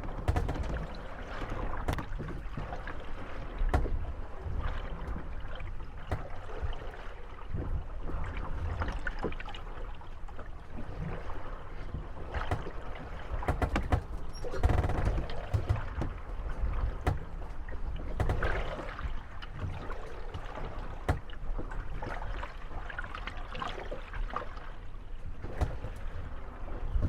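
Moored wooden gondolas rocking on waves, their hulls creaking and knocking against one another in scattered sharp knocks over lapping water and a steady low rumble.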